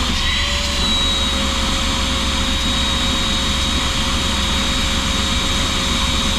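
Shop vacuum motor running with a high whine that levels off in the first half-second and then holds steady, with a constant rush of air. The semi truck's diesel engine idles as a low rumble underneath.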